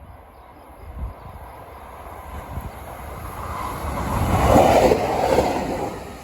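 A train passing by: its rumble builds steadily, is loudest about three-quarters of the way through, then begins to fade.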